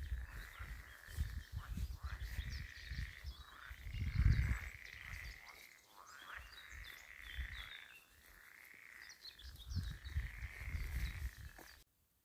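Birds chirping with short high calls over a steady high trill that comes and goes in spells of a few seconds, with uneven low rumbling underneath. All of it cuts off suddenly just before the end.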